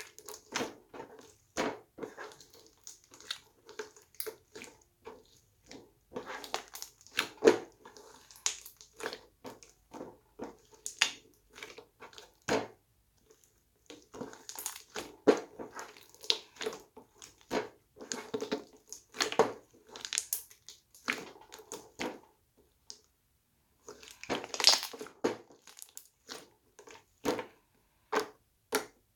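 Slime being squished and pressed by hand, making irregular clusters of sharp pops and crackles with a few short pauses.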